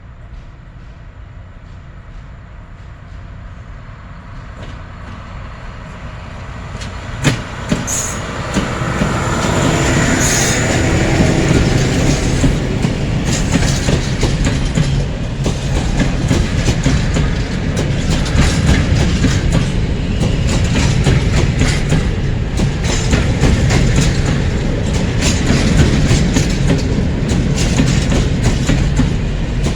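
A PKP Cargo freight train coming close and passing: a low rumble that grows louder over the first several seconds, a brief high wheel squeal about seven seconds in, then the wagons' wheels clattering steadily over the rail joints.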